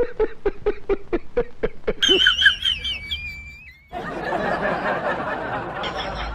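Snickering laughter in quick, even pulses for about two seconds, then a wavering high whistle, then a long rough noise from about four seconds in.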